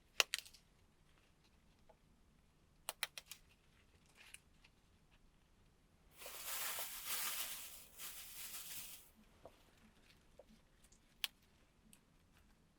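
A few sharp clicks and taps, then a rustling hiss lasting about three seconds, from something being handled close by.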